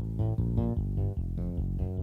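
Yamaha PSR-E373 keyboard playing a quick run of low notes on a plucked, bass-guitar-like preset voice, several notes a second.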